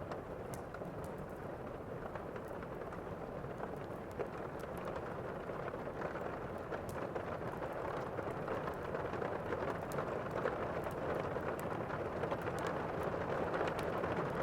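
Thunderstorm ambience: steady heavy rain, swelling louder from about halfway through, with scattered faint clicks.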